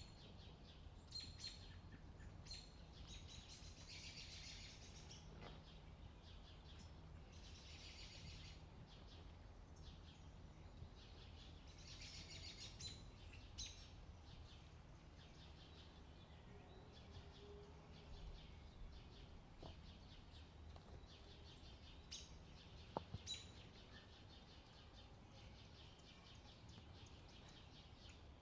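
Faint wild-bird chirps repeating in short clusters over a low, steady rumble of wind, with one sharp click about 23 seconds in.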